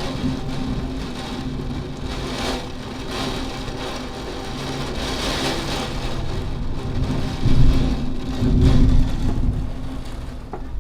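Hard rain falling steadily in a thunderstorm, with two louder low rumbling swells about three-quarters of the way through.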